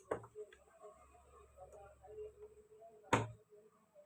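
Scattered knocks and clicks of tools and parts being handled on a workbench, with a sharper knock right at the start and a louder one about three seconds in. The grinder's motor is not running.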